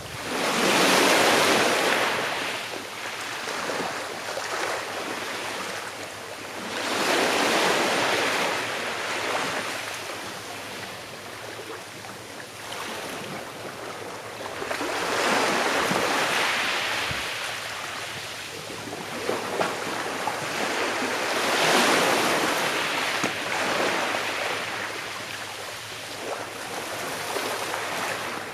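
Gentle sea waves breaking and washing on the shore, swelling and fading about five times, one every six or seven seconds.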